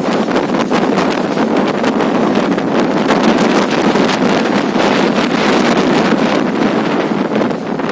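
Strong wind blowing hard across the microphone: a loud, steady rushing noise with constant crackling.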